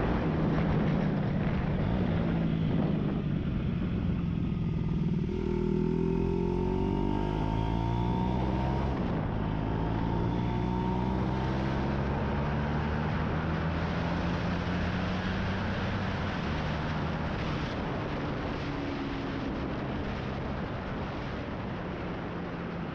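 Aprilia RS4 125's single-cylinder four-stroke engine running through a Scorpion aftermarket exhaust, its note shifting slowly up and down. It grows gradually quieter towards the end.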